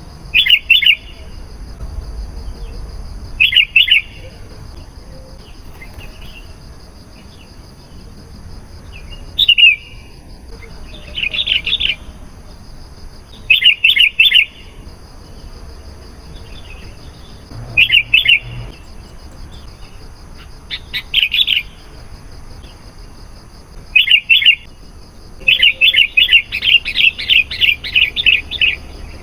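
Sooty-headed bulbul singing: short, bright, chirpy phrases every two to four seconds, with a longer run of quick repeated notes near the end.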